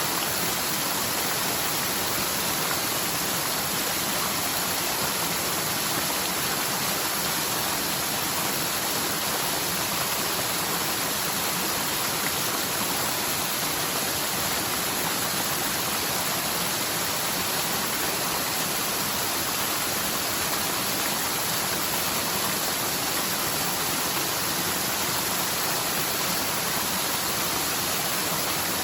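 Forest mountain stream swollen by typhoon rain, its water rushing steadily down the slope in a constant, even hiss. The stream is normally almost dry and is running high only after the heavy rain.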